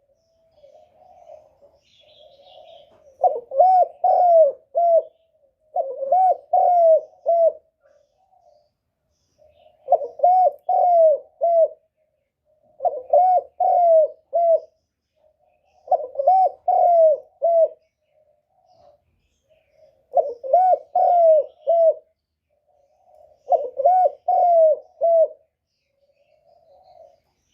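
Spotted dove giving its 'cu gù' bowing coo, the excited call used as a lure to draw wild doves in to a trap. Seven phrases of three or four arched coo notes, one every three to four seconds, with soft murmuring between them.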